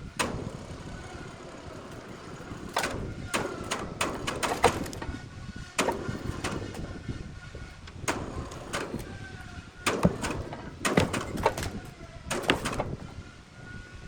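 Irregular heavy knocks and clanks, a dozen or so, some in quick pairs, over a low rumble and a faint steady whine.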